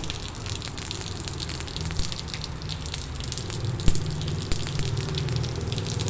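Rain falling steadily, with many fine drop ticks over a low rumble. One sharp tap stands out about four seconds in.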